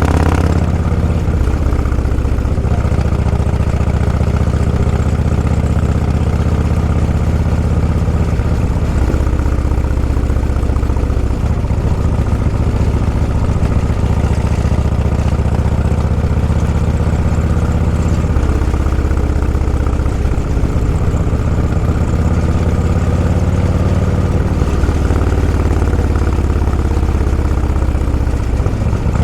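Vehicle engine running steadily at a low pitch, its note shifting down and up a few times as the speed changes.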